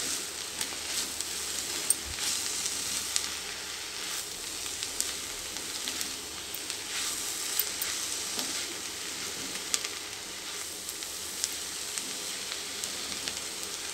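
Ponnaganti greens and chana dal sizzling steadily in a kadai while a silicone spatula stirs and turns them, with scattered light scrapes and ticks of the spatula against the pan.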